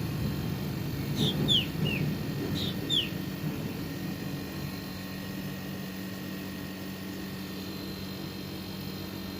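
Split air conditioner's outdoor unit running with a steady low hum: its compressor is now getting power from the repaired control board. A few short falling bird chirps come in the first three seconds.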